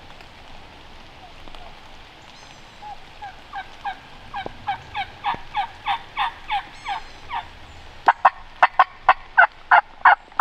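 Turkey yelping: a long, evenly paced series of yelps that builds in loudness from about three seconds in, breaking into a louder, sharper run of notes about eight seconds in, over a steady hiss of rain.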